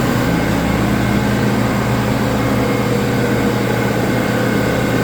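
A machine running steadily: a constant low hum with several fixed tones over a rushing noise, typical of air equipment in a paint shop.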